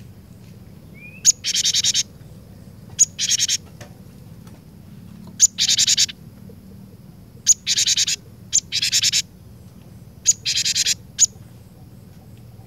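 Cinereous tit (glatik batu) calling: six phrases, each a sharp high note followed at once by a fast rattling trill about half a second long, with a second or two between phrases and a last lone note near the end.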